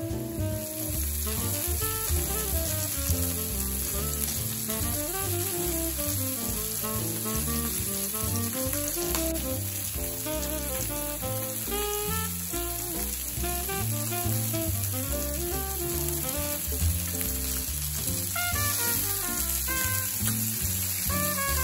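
Chicken breasts, seasoned and dusted with flour, sizzling steadily in oil in a frying pan, under background music.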